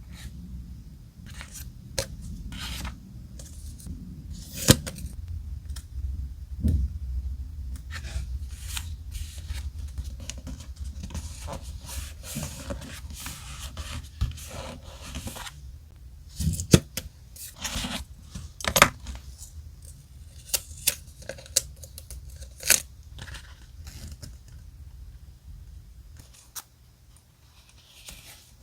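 Close-up paper crafting sounds: paper and stickers being handled, rubbed and rustled, with many scattered sharp clicks and taps, a few of them much louder.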